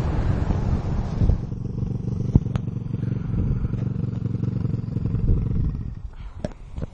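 Motorbike engine running at low revs, a steady low rumble, with wind noise on the microphone dying away in the first second or so. A few sharp clicks come near the end.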